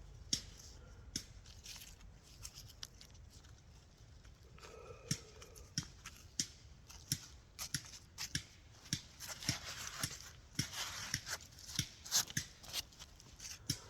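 Digging and rummaging through wet soil in a freshly dug hole: a long series of short crunches, scrapes and clicks, busiest about two-thirds of the way through, with a faint brief tone about five seconds in.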